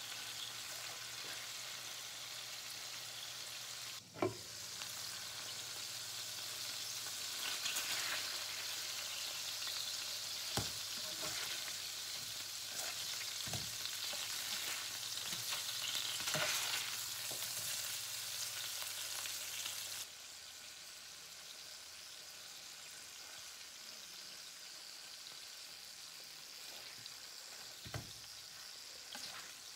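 Moose burger patties sizzling in bacon fat in a frying pan, with a few sharp knocks against the pan. The sizzle turns quieter about two-thirds of the way through.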